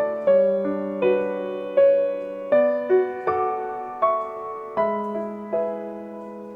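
Gentle background piano music: slow single notes and soft chords, each struck and left to ring. Near the end one chord is held and fades out.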